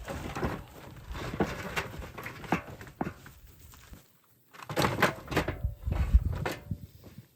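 Bamboo knocking and cracking in irregular sharp strikes, with a short break a little past the middle and the loudest strikes near the end.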